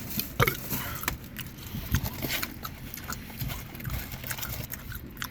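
A person chewing food close to the microphone, with wet lip smacks and irregular mouth clicks.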